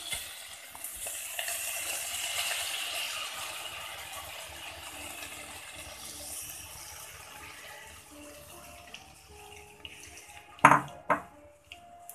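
Tomato purée sizzling as it falls through a mesh strainer into a hot pan, the sizzle fading over the first several seconds. Two sharp knocks sound near the end.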